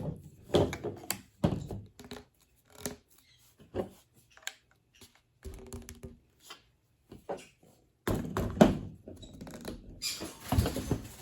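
PVC pipe pieces and fittings being handled, twisted and pressed together: irregular light knocks and clicks, with busier handling near the end.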